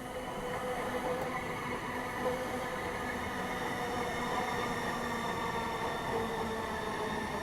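Link light rail train running through the station: a steady rumble with several held whining tones from the motors and wheels.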